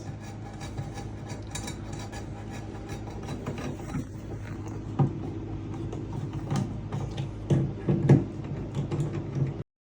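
Mechanical clicking and rattling over a steady low hum, with a sharp knock about halfway through and a cluster of louder knocks near the end.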